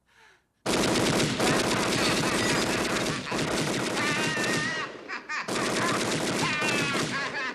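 Tommy gun (Thompson submachine gun) firing in two long rapid bursts with a short break between them, a voice crying out over the fire.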